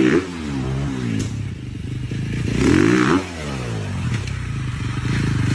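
Dirt bike engine revving hard. The pitch peaks at the start, drops away, then climbs to a second peak near three seconds before falling again.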